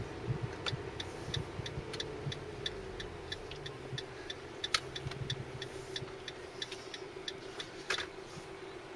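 A car's turn-signal indicator ticking evenly, about three ticks a second, over the steady hum of the engine and road noise inside the cabin, with one sharper click about halfway through and a louder knock near the end.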